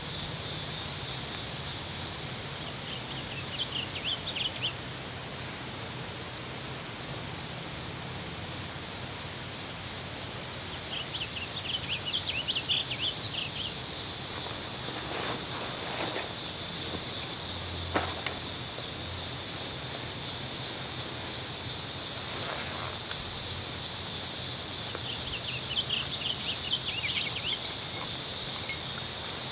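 A steady, high-pitched chorus of cicadas that swells gradually louder from about ten seconds in. Short warbled phrases of an eastern bluebird come three times: a few seconds in, around twelve seconds, and near the end.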